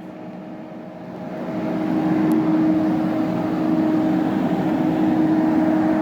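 Steady machine hum with a low drone, swelling over the first two seconds and then holding steady.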